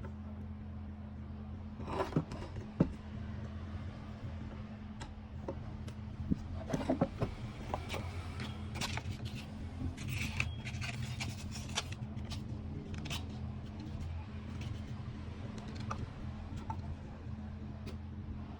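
Small metal parts clinking and scraping as they are handled, in scattered bursts over a steady low hum.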